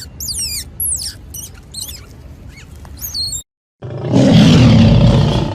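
Two animal call clips: a run of high, quickly falling squeaks or chirps, then, after a short silent break, a loud, rough, roar-like call lasting about a second and a half.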